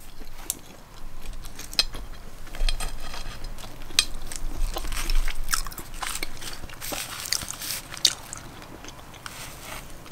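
Close-miked mouth sounds of a person chewing a bite of chicken quesadilla, with scattered sharp wet clicks every second or so.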